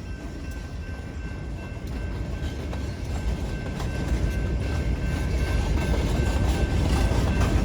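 Freight train approaching behind its diesel locomotives: engine rumble and wheel noise growing steadily louder.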